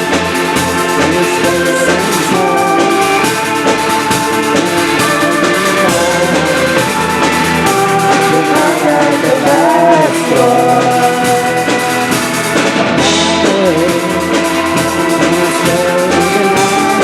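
Live band music, a drum kit keeping the beat under melodic instruments, with a wavering lead line through the middle.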